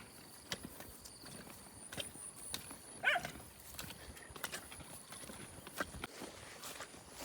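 Scattered light knocks and clicks at irregular intervals, with a faint steady high-pitched whine and a short wavering chirp about three seconds in.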